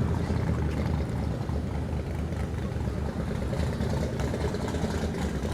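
A vehicle engine idling with a steady, low rumble.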